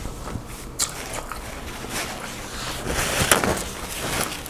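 Close-miked chewing and mouth sounds of a person eating seafood-boil shrimp, with a sharp click about a second in and louder wet eating noise in the second half.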